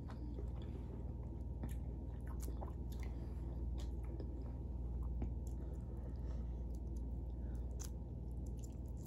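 Close-up chewing and mouth sounds of someone eating seafood boil, with scattered small clicks and crunches over a steady low hum.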